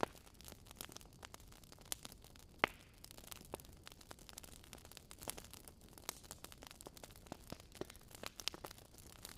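Wood fire crackling: irregular sharp snaps over a faint low hiss, with one louder pop a little under three seconds in.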